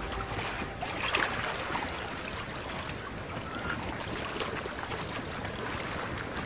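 A large pyre fire burning, a steady rushing noise with scattered crackles.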